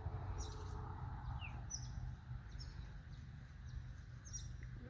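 Birds chirping outdoors: scattered short, high calls, with one quick falling note, over a steady low rumble.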